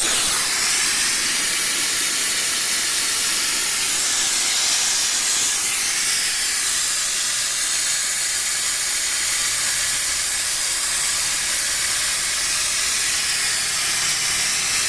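Pressurised steam rushing out of an opened metal milk-can still used for fir-oil distillation: a loud, steady hiss that starts suddenly.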